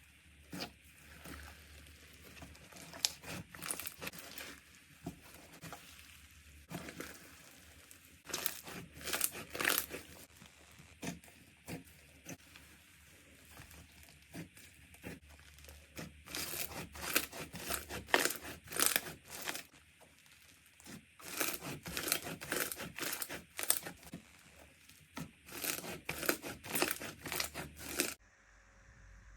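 Slime being handled, pressed and stretched, giving bursts of sharp crackling pops and clicks with quieter squishing between them; the sound cuts off abruptly about a second before the end.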